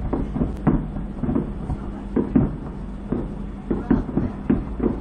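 Distant fireworks exploding in an irregular string of muffled bangs, about three a second, over a steady low rumble.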